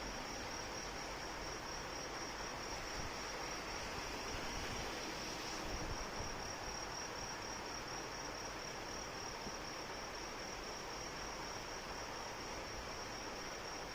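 Steady rain falling as an even hiss, with insects trilling continuously in a high, finely pulsing chirr.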